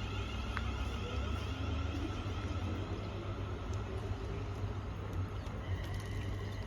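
Class 380 electric multiple unit running on the line with a steady low rumble; a faint steady whine joins in near the end.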